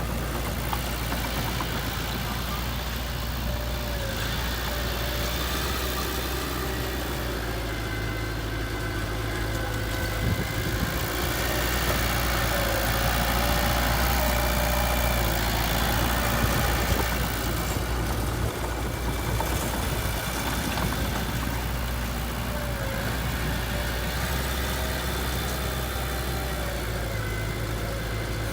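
Heavy diesel machinery engine running steadily, rising somewhat louder for several seconds in the middle before settling back.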